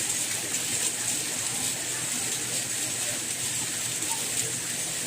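Steady rain, a high, even hiss with faint ticks of individual drops.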